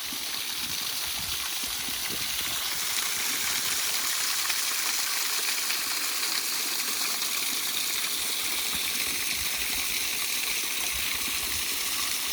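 Waterfall rushing: a steady hiss of falling water that grows slightly louder about three seconds in.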